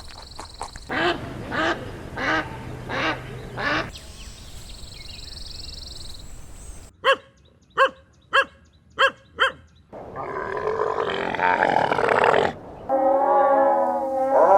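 A run of different recorded animal calls cut one after another: five repeated calls about a second apart, a high steady tone, five short sharp calls in quick succession, then a long pitched call near the end.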